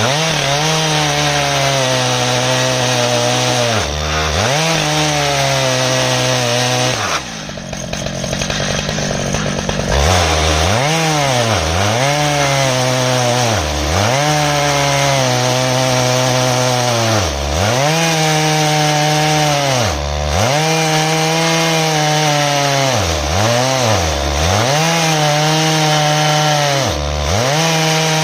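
Stihl MS 881 two-stroke chainsaw running at full throttle while ripping an ash log lengthwise in an Alaskan chainsaw mill. Its pitch sags and recovers every second or few as the chain loads up in the cut. About seven seconds in the engine drops off and then revs back up around ten seconds.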